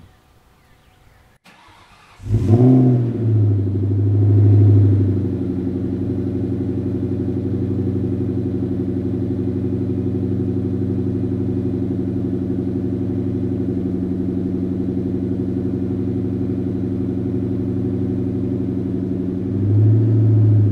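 V8 car engine starting about two seconds in, flaring up for a few seconds, then settling into a steady idle. Near the end it rises briefly with a light blip of the throttle.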